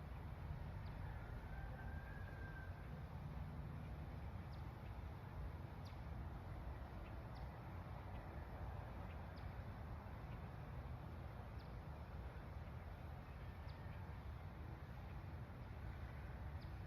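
Faint outdoor ambience: a bird gives short high chip notes about every two seconds, with a brief warbled call near the start, over a low steady rumble.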